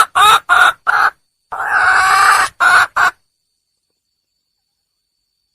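Red junglefowl hen calling: a quick run of short clucking calls, one longer call, then two more short ones, which cut off abruptly about three seconds in. It is the call a wild hen gives to draw a male.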